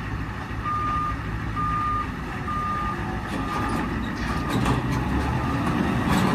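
A truck's reversing alarm beeps about once a second, loudest for the first three beeps and then fading, over the steady low running of the International flatbed truck's engine.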